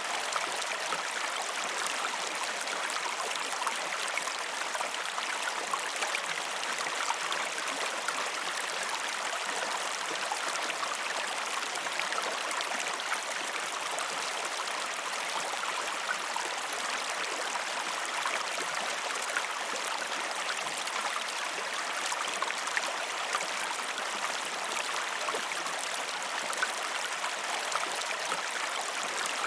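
River water running in a steady, unbroken rush, with many small splashes and droplet ticks through it.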